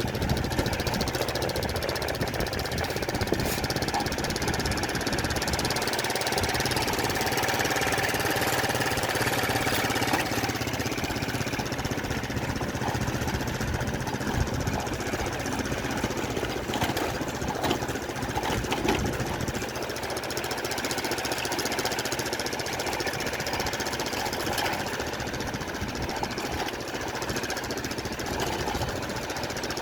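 A small engine running steadily with a rapid knocking beat.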